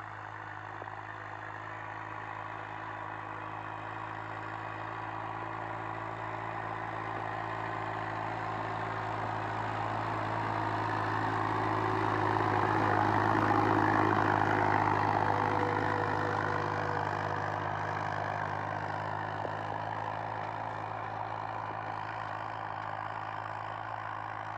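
Massey Ferguson 245 tractor's three-cylinder diesel engine running steadily as the tractor drives by. It grows louder to a peak about halfway through, then fades.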